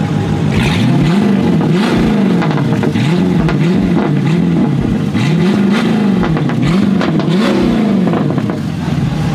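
Car engine revved again and again, roughly once a second, each rev rising and falling in pitch, with sharp crackles in between.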